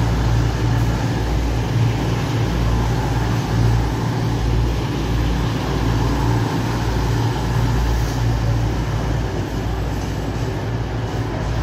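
East Midlands Railway Class 222 Meridian diesel multiple unit running past, a steady deep engine drone with rail rumble.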